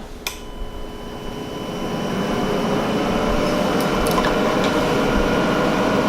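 EcoFlow Delta 1300 portable power station's cooling fans spinning up as it begins charging: after a click just at the start, a steady whir with a thin whine grows louder over about three seconds, then holds level. The fans run hard because of the charging load.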